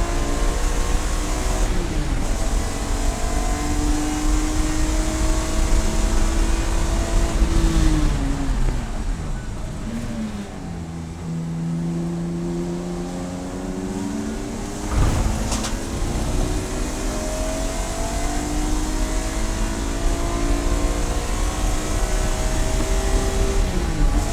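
Race car engine running hard and climbing through the revs, its pitch dropping sharply at each upshift. About eight seconds in the revs fall away for a few seconds, then build again. A single sharp knock sounds a bit after halfway.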